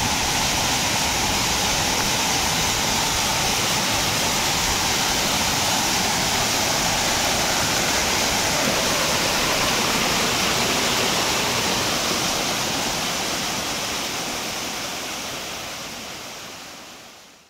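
Slide waterfall: water rushing down over a large rock, a steady wash of noise that fades out over the last few seconds.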